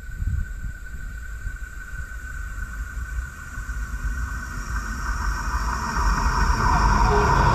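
Electric passenger train approaching along the track, growing steadily louder, with a low rumble under a steady high-pitched ringing tone.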